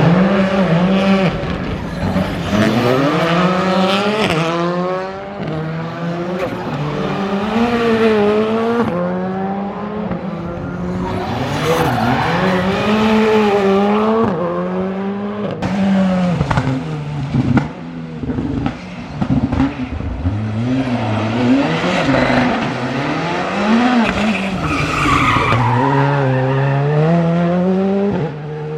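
Skoda Fabia R5 rally car's turbocharged 1.6-litre four-cylinder engine driven flat out. The pitch climbs and drops again and again through gear changes and lifts, with several sharp cuts in the middle stretch.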